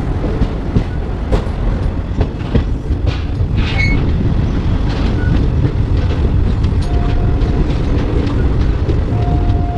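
Passenger train rolling out of a station at low speed, its wheels clicking and knocking over the rails over a steady rumble. Short high squealing tones come in near the end.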